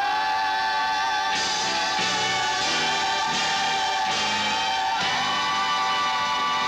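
The end of a 1970 Dodge advertising jingle: a choir holding long sung notes over a band playing a steady pulsing beat, moving to a new held chord about five seconds in.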